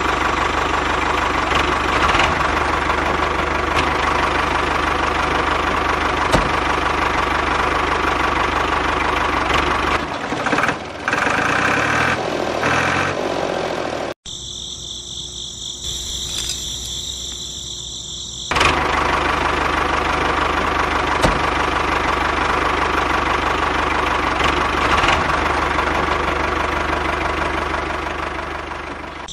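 A small electric motor running with a steady whir. About 14 seconds in it cuts out for around four seconds of high, pulsing chirring, then runs again and fades near the end.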